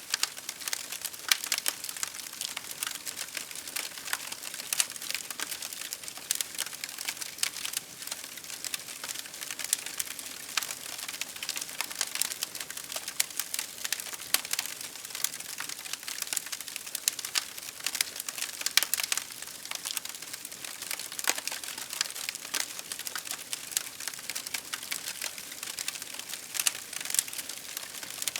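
Wood fire crackling: a dense, irregular run of sharp snaps and pops over a soft hiss, with no pause or change.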